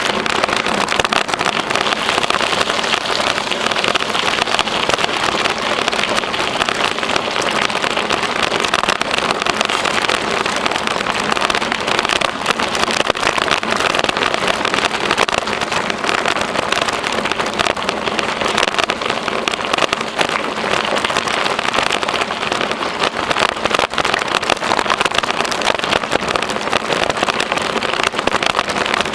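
Steady noise of a bicycle on the move: tyres rolling over the trail surface with a continuous crackle and rattle.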